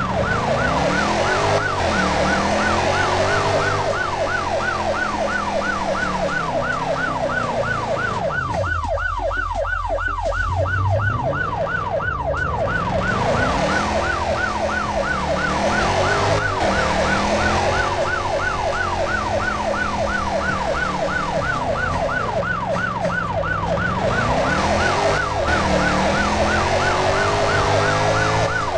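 Electronic siren in a fast yelp, its pitch rising and falling about three to four times a second without a break. Slower swelling and falling tones sit beneath it.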